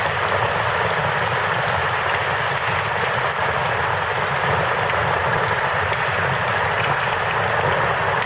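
Steady rushing of a river, with the light crackle of a campfire ticking over it.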